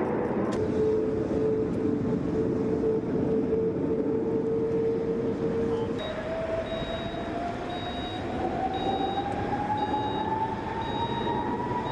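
Jet aircraft engine running with a steady whine over a loud rushing noise; about six seconds in the sound changes abruptly and the whine slowly rises in pitch, with short high beeps about once a second.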